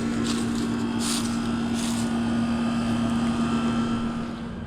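2007 Trane 5-ton heat pump outdoor unit running, its reciprocating compressor giving a steady hum under the fan noise, in what the owner takes to be cool mode. Near the end the hum cuts off as the unit shuts down.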